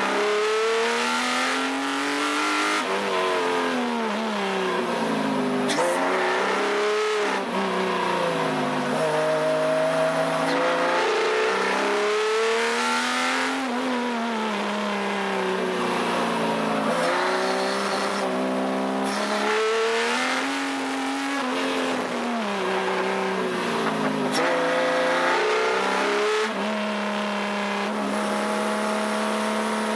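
Subaru EZ30 3.0-litre flat-six in a Porsche 914/6 driven hard on track. The revs climb and fall over and over as it accelerates, shifts and brakes, with a few sudden drops in pitch.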